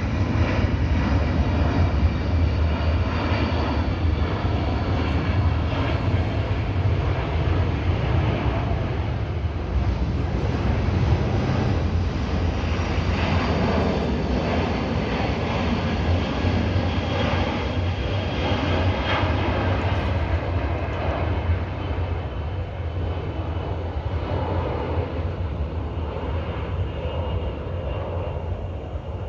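A large airplane passing over, its engines a steady rumble with a faint high whine, growing slightly fainter in the last several seconds.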